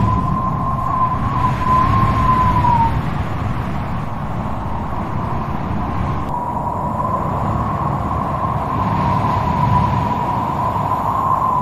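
Strong wind with a steady low rumble and a wavering, high-pitched howling whistle that drops away about three seconds in and returns about six seconds in.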